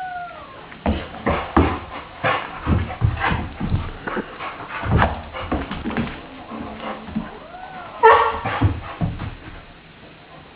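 A Saint Bernard puppy tussling with a cat: irregular thumps and scuffling, broken by a few short whining calls. The loudest is a brief yowl about eight seconds in.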